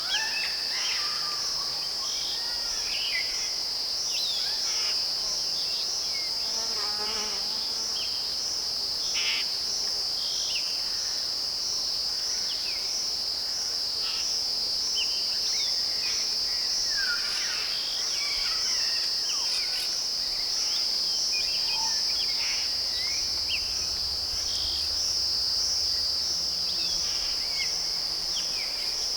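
A continuous high-pitched insect trill, with a slight pulse, from crickets or similar insects. Short bird chirps and whistles are scattered over it throughout.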